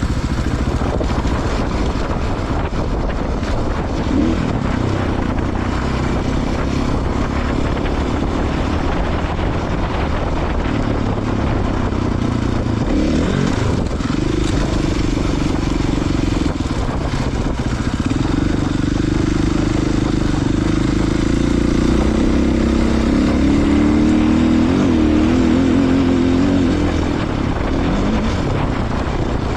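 Off-road motorcycle engine running under load on a dirt trail, its pitch rising and falling as the throttle is opened and closed.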